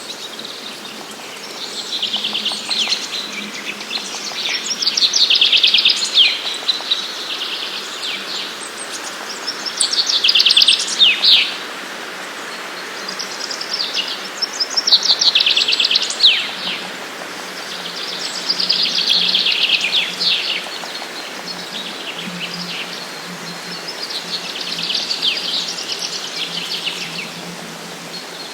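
Forest songbirds singing in early spring: a short phrase of rapid trilled notes, about two seconds long, repeats roughly every four seconds over a steady background hiss.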